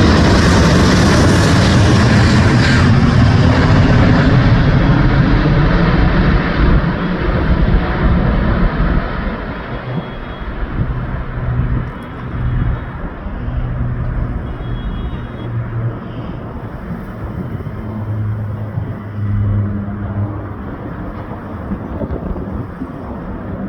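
Airbus A380's four jet engines at takeoff power, a loud roar that fades over the first several seconds as its higher part dies away. It leaves a lower, weaker rumble with a faint low hum.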